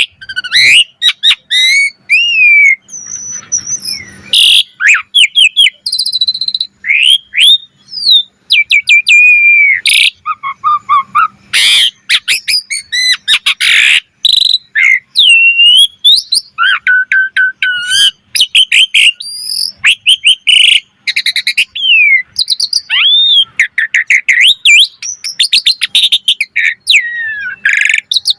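Asian pied starling singing a long, varied song: whistled rising and falling notes mixed with rapid clicking rattles and harsh chattering bursts in quick succession.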